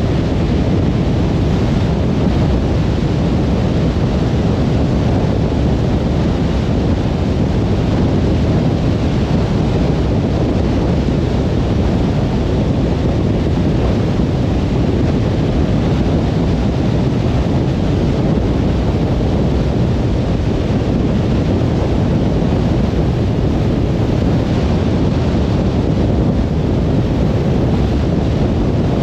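Steady low rumble of a car cruising on a motorway: tyre and wind noise with no distinct events.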